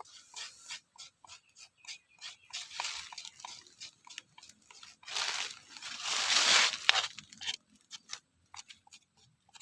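Irregular clicks and crackles from food and utensils being handled, with two longer stretches of crunching and rustling, the louder one about five seconds in.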